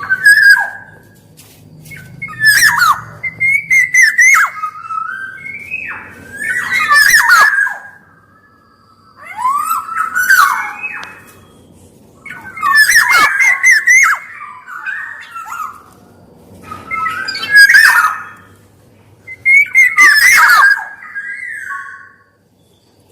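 Black-naped oriole (kepodang) calling repeatedly: about seven loud phrases, one every three seconds or so, each mixing fluty whistled notes with a harsh, rasping edge.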